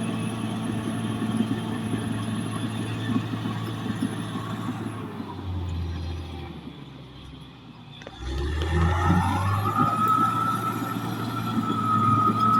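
Caterpillar D6R XL bulldozer's diesel engine running steadily, then easing to a lower note for a couple of seconds. About eight seconds in it revs up again with a high whine that rises and then holds steady.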